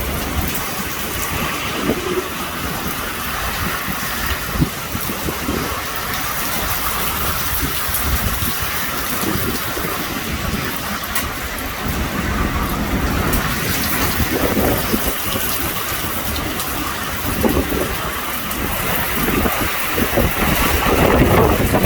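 Heavy thunderstorm rain pouring down in a continuous rushing hiss, with low rumbling surges every few seconds that grow loudest near the end.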